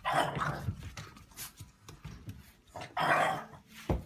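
A dog making short, rough bark-like sounds, the loudest about three seconds in, with a sharp thump just before the end.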